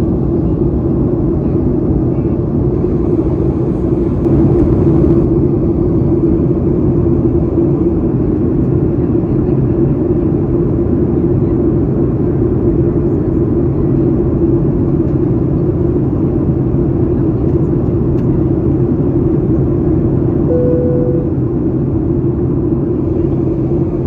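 Steady, loud in-flight cabin drone of a Boeing 737-800: engine and airflow noise heard from inside the cabin. A brief single tone sounds about twenty seconds in.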